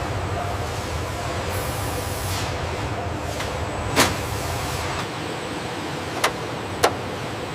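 Steady mechanical hum with a low rumble that drops away about five seconds in, broken by a sharp knock about four seconds in and two more sharp clicks near the end.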